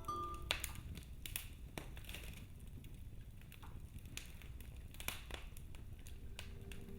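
Wood fire in a fireplace crackling, with scattered sharp pops over a low steady rumble.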